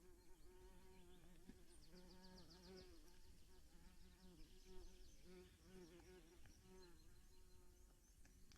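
Faint buzzing of a flying insect, a fly or bee close to the microphone, its pitch wavering up and down as it circles.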